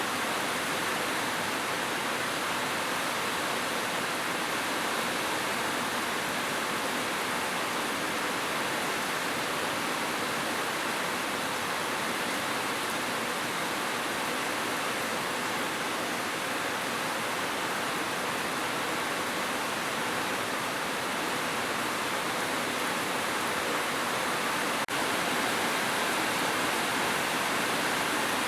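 Heavy rain falling steadily on a roof, an even unbroken hiss, with one faint click near the end.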